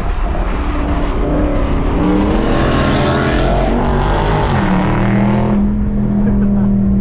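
Muscle-car engine accelerating on the highway, its note climbing over the first few seconds and then holding one steady pitch. Road and wind rush runs alongside and drops away about five and a half seconds in.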